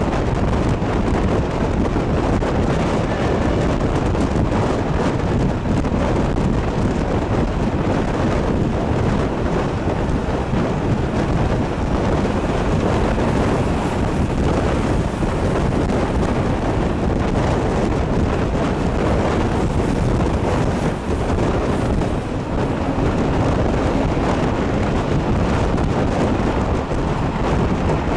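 Steady rumble and rush of a moving train, with heavy wind buffeting the microphone.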